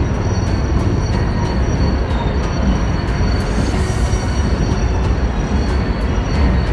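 Ballast train hauled by a DF4B diesel locomotive rolling across a steel truss bridge: a steady heavy rumble of wagons on the steel span, with quick regular clicking of wheels on the rails, about three a second, and a faint high wheel squeal.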